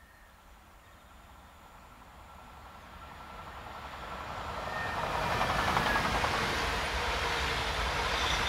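A train approaching, growing louder over about five seconds, then running past close by with a steady rumble and a thin high whine near the end.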